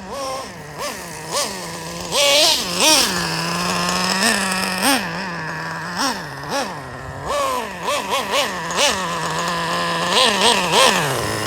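Traxxas Revo's 3.3 nitro engine idling with a steady buzz and revved in repeated short throttle blips, the pitch jumping up and dropping back to idle each time.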